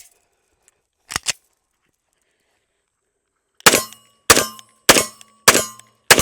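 FN FNX-45 pistol firing .45 ACP: five loud shots in steady succession about 0.6 s apart, starting a little past halfway, each with a short ringing tail. Two quieter sharp cracks come about a second in.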